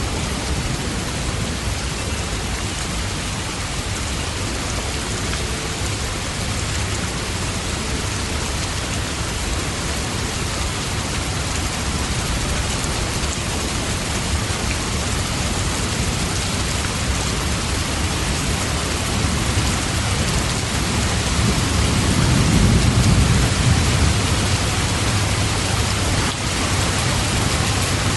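Steady rain falling, with a low rumble of thunder swelling and fading about three quarters of the way through.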